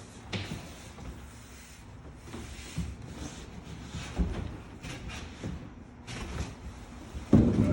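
Scattered knocks, scrapes and rustling as a piano is lowered and handled by movers, ending in a heavy thud near the end.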